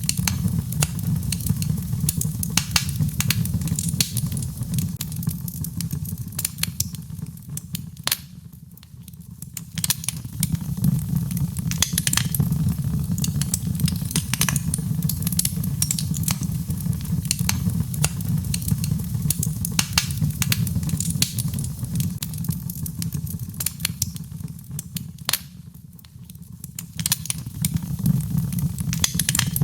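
Birchwood fire crackling in a fireplace: many sharp pops and snaps over a steady low rumble. It thins out briefly twice, about nine seconds in and near the end.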